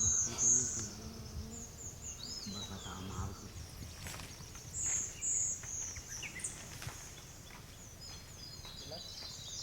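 Wild birds calling: short, high-pitched chirps in pairs about half a second in and again around five seconds in, with a couple of thin, falling whistles near the start.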